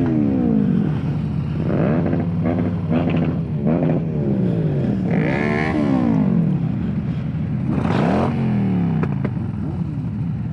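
Motorcycle engines on a group ride: a steady low engine drone with repeated rises and falls in pitch as the throttle opens and closes through the gears.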